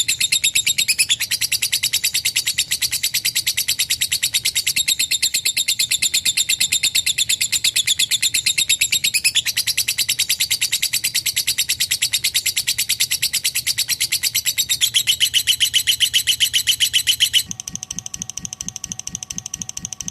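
Lovebird 'ngekek': a long, unbroken, rapid high-pitched chattering trill of evenly repeated notes. About three seconds before the end it cuts off suddenly, and a quieter, different rhythmic pulsing with faint steady tones follows.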